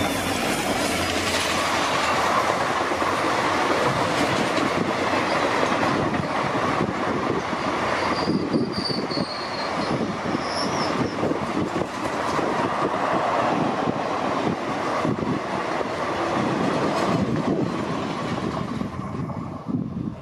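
Express train's passenger coaches passing close at speed: a steady loud rolling rumble of steel wheels on the rails, with rapid clickety-clack over the rail joints. A brief high squeal from the wheels comes in about eight seconds in. The noise falls away near the end as the train recedes.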